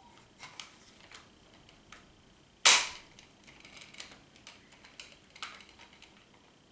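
Smith & Wesson SD40 pistol being dry-fired: a loud sharp click as the striker snaps forward when the trigger breaks under a trigger-pull gauge, about a third of the way in. Small clicks of the gun and gauge being handled come before and after it.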